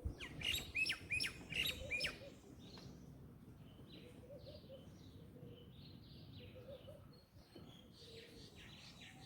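Small bird chirping: a quick series of loud, sharp, falling chirps for about the first two seconds, then fainter chirps that go on in the background.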